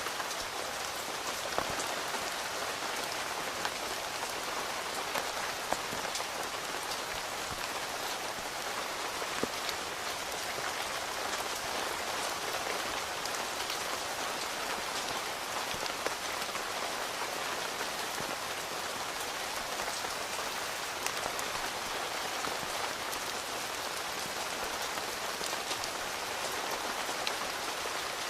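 Steady rain falling on a tent, an even hiss with many separate drops ticking sharply on the fabric.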